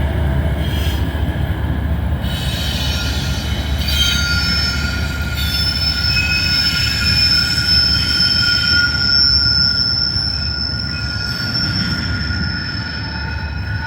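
Double-stack intermodal freight cars rolling past with a steady low rumble. From about four seconds in, a high, steady wheel squeal rings over it.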